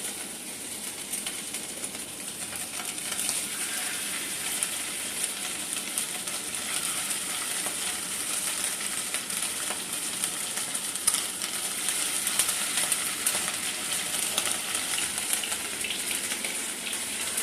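Cornflour-battered chicken strips deep frying in hot oil: a steady sizzle with constant small crackles and pops.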